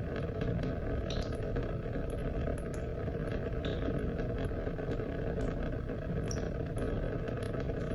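Steady rain: a constant wash of falling water with many separate drops ticking sharply on top at irregular moments.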